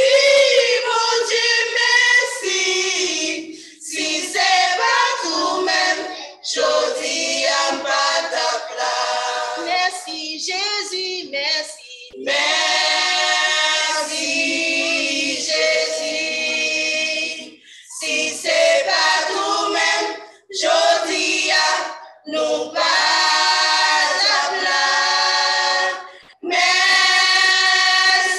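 Gospel choir singing a hymn of thanks in sustained phrases, with short breaks between them.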